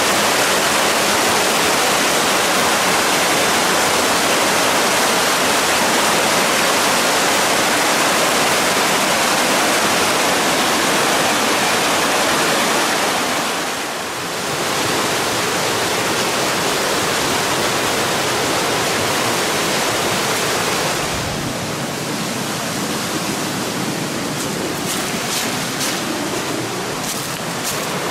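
Waterfall rushing, a steady wash of falling water that briefly dips about halfway through and runs a little quieter over the last few seconds.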